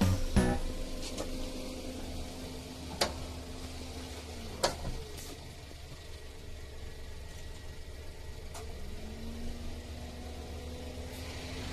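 Small in-car ventilation fan's motor running with a steady hum. Two clicks come at about three and four and a half seconds in, and the fan winds down. It spins back up to speed about two-thirds of the way through.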